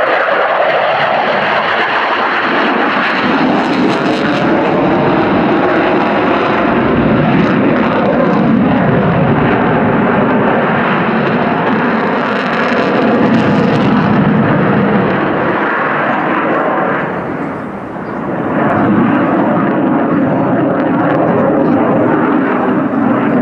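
Loud, continuous jet noise from an F-35B Lightning II's single F135 afterburning turbofan as the fighter flies its display, easing off briefly about three quarters of the way through before building again.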